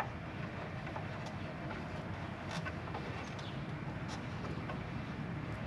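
Quiet steady background noise with a few faint, scattered light clicks of a 12 mm bolt and tools being handled while working on a motorcycle's rear shock mount.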